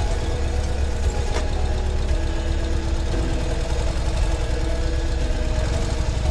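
Ural sidecar motorcycle's air-cooled flat-twin engine running steadily at low revs, its note shifting slightly about three seconds in.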